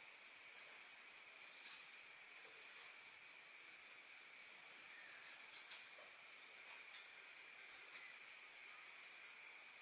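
Orange-headed thrush giving its thin, high 'ngecis' call: three drawn-out whistles, each sliding down in pitch over about a second, roughly three seconds apart. It is the call used to draw in males.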